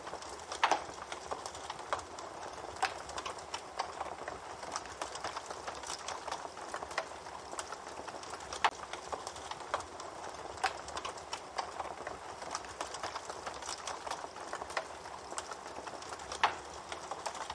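Wood campfire burning, a steady crackle with irregular sharp pops and snaps, a few louder ones about half a second in and near the end.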